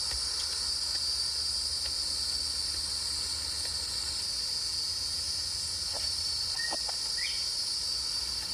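Steady chorus of crickets and other night insects, an even high-pitched shrilling without a break, with one faint short rising chirp about seven seconds in.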